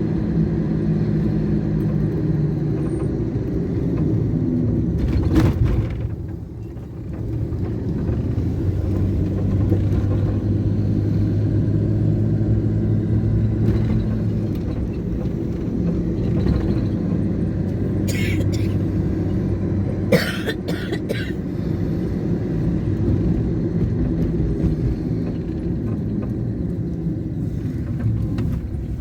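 Road traffic with vehicle engines running and wind rumbling on the microphone. There are a few short, sharp knocks.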